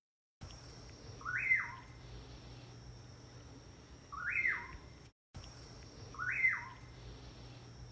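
A bird calling three times, a few seconds apart. Each call is short and sweeps up and then down again, over a faint steady high tone.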